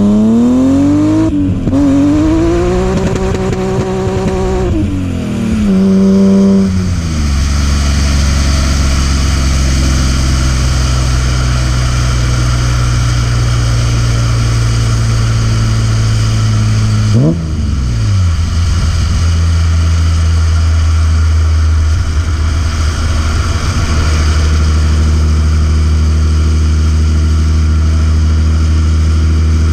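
BMW E36 M3's S50B30 straight-six revving up through a gear change, easing off, then running at a steady pitch for a long stretch. About 17 seconds in there is one quick sharp rev blip before the steady note returns.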